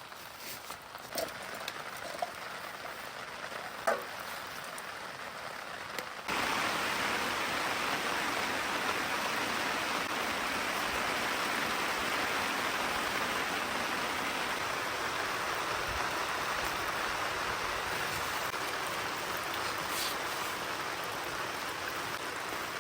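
Steady rain falling. For about the first six seconds it is lighter, with a few separate taps, then it jumps suddenly to a louder, even rain noise that holds steady.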